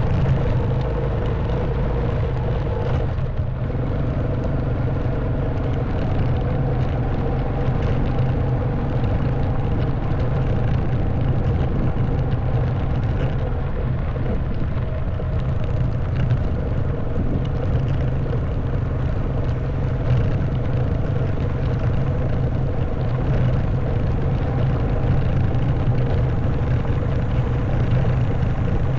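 Honda Wave 110cc single-cylinder four-stroke engine running steadily at a constant pitch under way, with wind and road rumble from the ride on a rough track.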